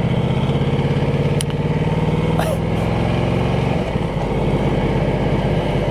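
Ducati Multistrada 1200S V-twin engine running at low speed with an even pulse; the revs drop about four seconds in as the bike slows.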